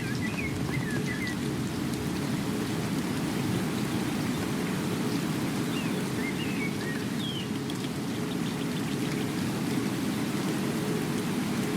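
Steady heavy rain with a deep, even rushing. A few short high chirps come through about a second in and again around six to seven seconds in.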